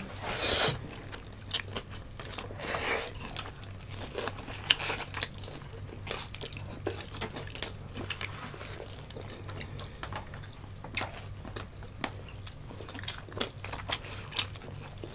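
Close-up eating sounds: chewing, smacking and occasional crunches of food eaten by hand, with scattered sharp mouth clicks. A steady low hum runs underneath.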